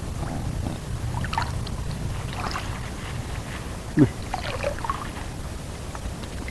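Water sloshing and small splashes around a person wading, with a steady low rumble of wind on the microphone and a short falling sound about four seconds in.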